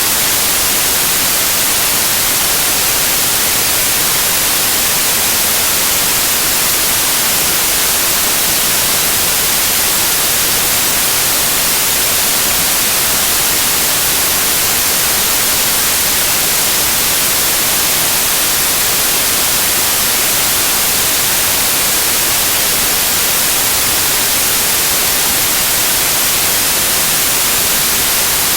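Loud, steady white noise: an even hiss, brightest in the treble, that never changes.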